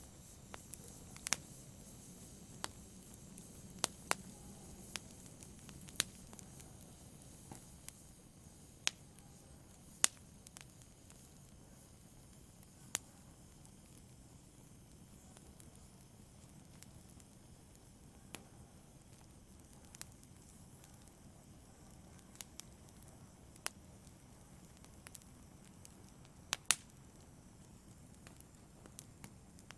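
Wood fire burning in a fireplace: a steady low hiss and rumble with sharp, scattered pops and crackles every second or few, a double pop a little before the end.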